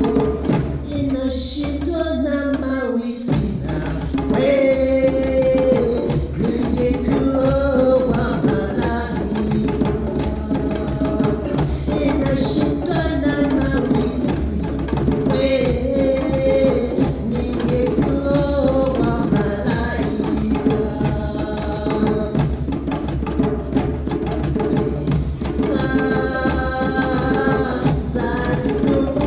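Choir singing in parts over drums that keep a steady beat.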